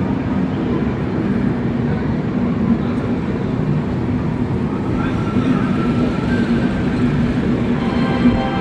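Rajdhani Express train running, a steady low rumble of the train in motion. Faint tones come in over the last few seconds.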